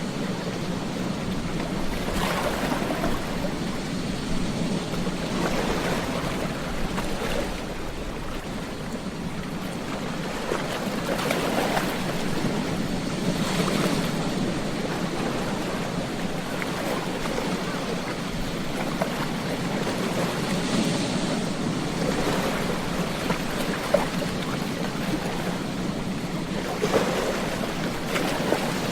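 Ocean surf on a beach: a steady wash of water, with waves swelling and breaking every few seconds.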